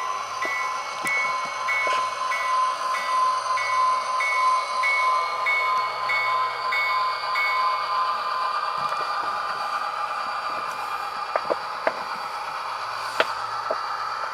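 Tsunami sound decoder in an Atlas GP40-2 model diesel locomotive playing its simulated diesel engine sound, a steady drone with a high turbocharger-like whine, through the model's small speaker. A rapidly pulsing high tone runs along with it and stops about eight seconds in, and a few sharp clicks come near the end.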